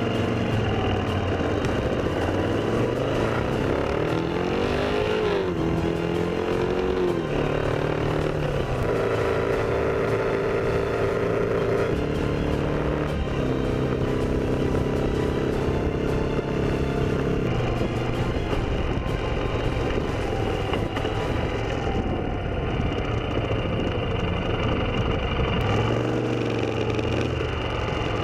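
Motorcycle engine under way, rising in pitch as it accelerates about four seconds in, then running at steady speeds with several shifts in pitch, over steady road and wind noise.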